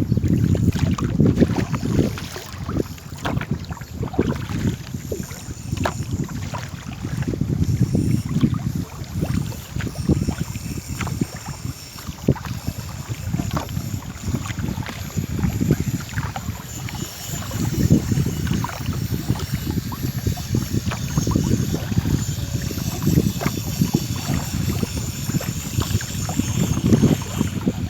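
Small boat being paddled on a river: water splashing and sloshing, with wind buffeting the microphone in gusts.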